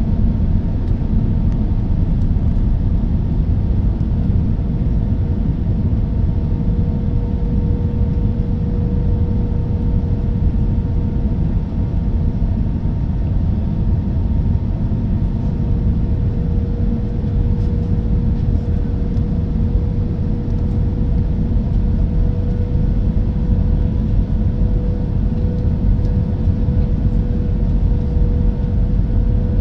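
Cabin noise inside an Airbus A320-214 airliner on approach: a steady, loud, low rumble of airflow and the CFM56 turbofan engines, with a steady mid-pitched engine hum above it.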